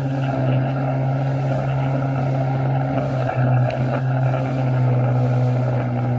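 Jet ski engine running with a steady, droning note that dips briefly about three seconds in.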